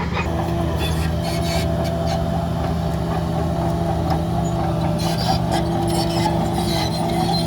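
Heavy diesel earthmoving machinery running steadily at a constant engine note, with irregular metallic clanks and rattles over it.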